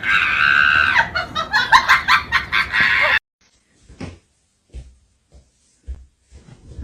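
A bird's rapid, loud clucking and squawking calls for about three seconds, cutting off suddenly, followed by a few faint soft knocks.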